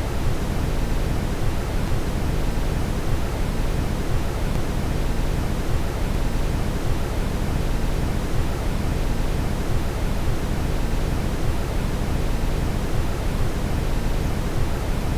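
Brown noise: a steady, unbroken deep rushing hiss, heaviest in the low end, with no change over time.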